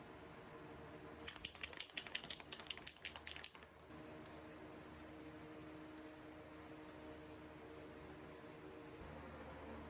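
Aerosol spray-paint can: its mixing ball rattles in a quick run of clicks for about two seconds as the can is shaken, then it sprays in short hissing bursts, about two a second.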